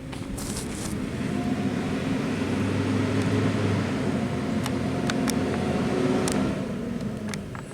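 Garbage truck engine running, swelling up over the first second or so, holding a steady pitch, then easing off near the end, with a few sharp clicks in between.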